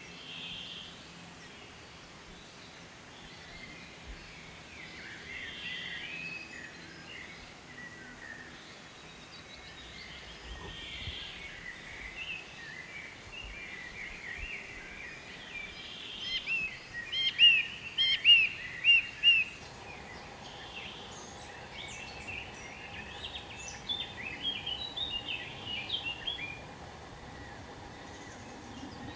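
Wild birds chirping and calling over steady outdoor background noise, with a run of loud, sharp chirps a little past the middle and another run of chirps near the end. A faint steady hum joins about two-thirds of the way in.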